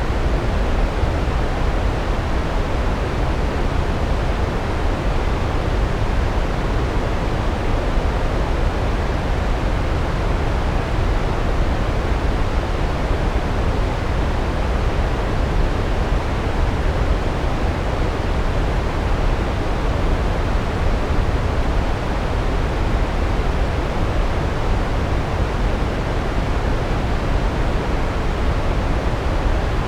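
Large waterfall: a steady, deep rush of falling water, even and unbroken throughout.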